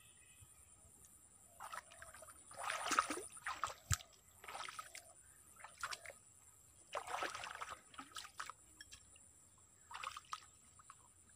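Eating sounds: irregular short bursts of chewing and crunching as fresh leafy greens and grilled fish are eaten by hand, with a sharp click about four seconds in.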